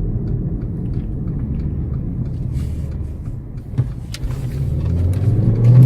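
Low, steady cabin rumble from the Mercedes CLA45 AMG's turbocharged 2.0-litre four-cylinder. Near the end the engine note climbs in pitch and loudness as the car starts a hard acceleration.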